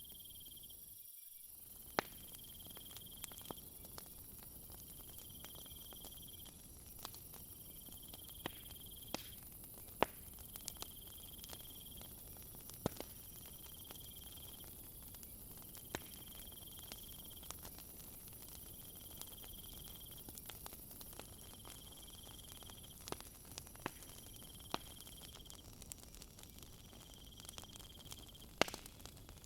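Wood fire crackling with scattered sharp pops, over a night insect chorus: a steady high drone plus one insect's call pulsing about every two and a half seconds.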